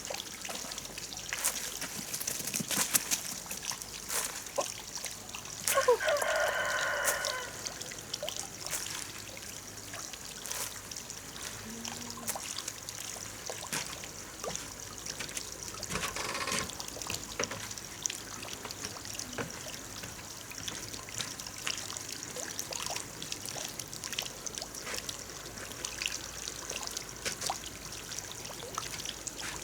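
Steady trickle of running water, with scattered small clicks and a short animal call about six seconds in.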